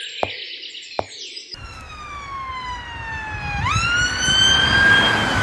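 Birds chirping with a couple of sharp clicks, then a siren wailing: a tone that slides slowly down, jumps quickly back up and holds, over a low rumble.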